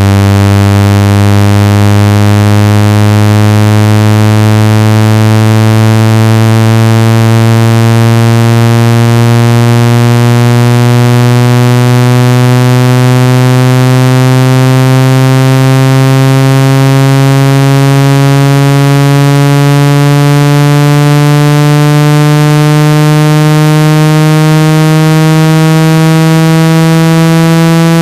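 Phone water-ejection tone: a loud, buzzy synthesized low tone with many overtones, gliding slowly and steadily upward in pitch. It is played through a phone or earphone speaker to vibrate trapped water out of it.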